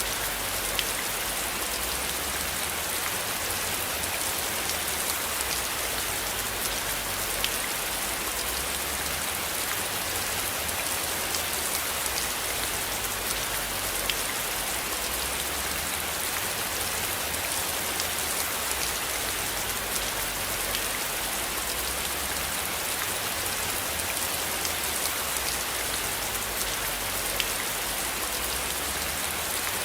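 Steady rain falling, a dense hiss full of fine, distinct drop patters, over a low rumble that swells and fades.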